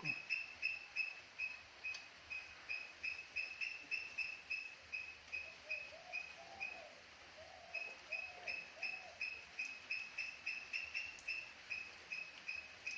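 A bird calling a rapid series of short, high, clear notes, about three or four a second, with a brief pause about seven seconds in. Fainter, lower calls are heard in the middle.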